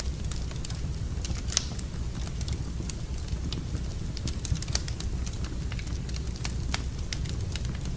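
Wood fire burning in a fireplace, crackling: irregular sharp pops and snaps over a steady low rumble of the flames, with the loudest pop about one and a half seconds in.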